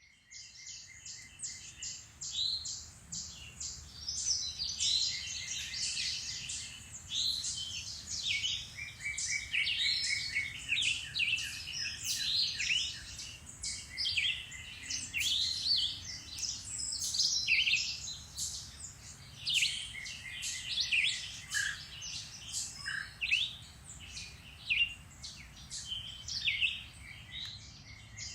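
A chorus of several songbirds singing and chirping over one another in spring woodland, with rapid trills and short whistled notes overlapping throughout.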